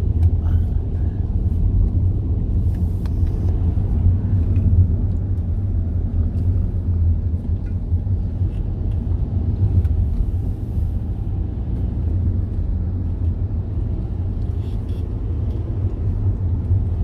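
Steady low rumble of a car in motion, heard from inside the cabin: engine and road noise with no break.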